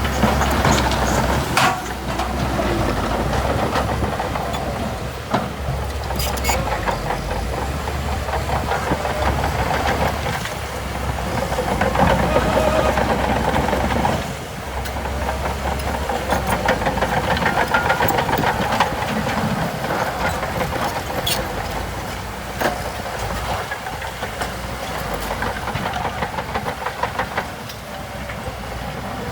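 Diesel engine of heavy earthmoving machinery running under load, rising and easing in waves, with a few sharp metallic knocks over it.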